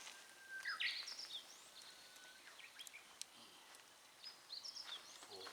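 A bird singing: whistled notes that hold and then jump up in pitch, twice.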